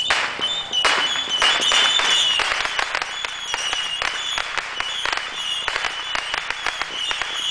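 Fireworks crackling: a dense, continuous stream of rapid small pops, with high whistling tones running through it.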